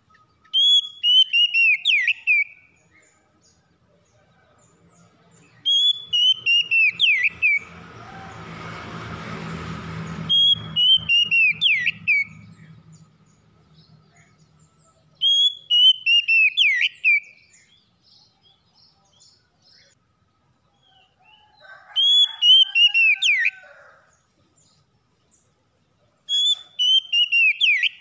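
Oriental magpie-robin (kacer) singing: a short phrase of loud whistled notes that step downward with quick sweeps, repeated about every five seconds, six times. Between the second and third phrases a low rushing noise with a hum swells and fades.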